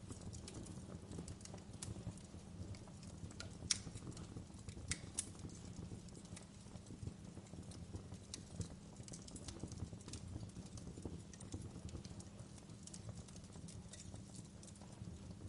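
Fireplace fire crackling: a low steady rumble of flames with irregular sharp pops and snaps, a couple of louder pops about four and five seconds in.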